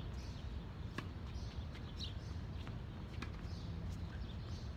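Small birds chirping briefly again and again over a steady low outdoor rumble, with a few sharp knocks about a second and three seconds in.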